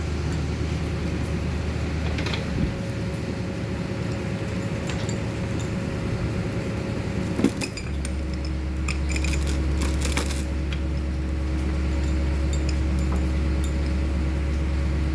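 Metal chain clinking and jingling in a chain hoist as a heavy truck engine is lowered. A steady low hum runs under it, cuts out about two and a half seconds in and comes back about eight seconds in.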